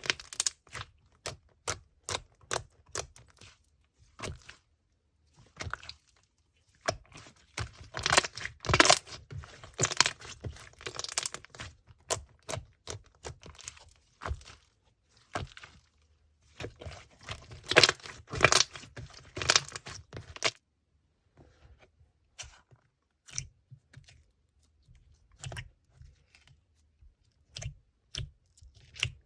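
Slime being squished and pressed by hand, giving irregular crackly clicks and pops, thickest in two busy stretches, then only scattered clicks near the end.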